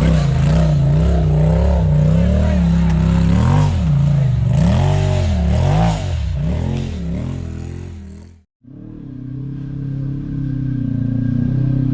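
Polaris RZR side-by-side engine revved up and down over and over, about once a second, as it works over rocks. It fades out, drops away for a moment, then comes back running more steadily at a lower, even pitch.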